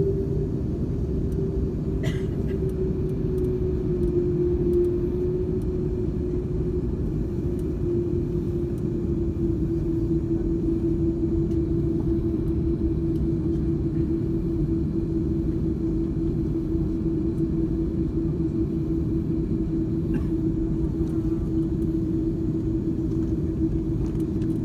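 Cabin noise of an Airbus A330-200 taxiing after landing: a steady low rumble with a constant, slightly wavering hum.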